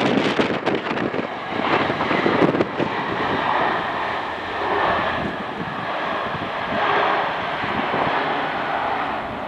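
Jet airliner engines running, a rushing noise with a thin steady whine over it. Wind gusts buffet the microphone in the first second or so.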